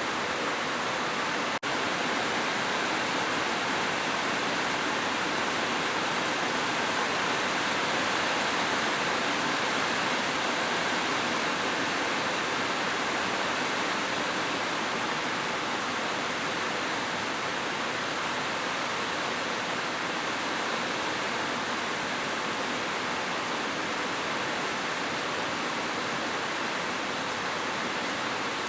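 Heavy rain falling steadily, a dense even hiss with no separate drops standing out. There is one brief click and dip in level about a second and a half in.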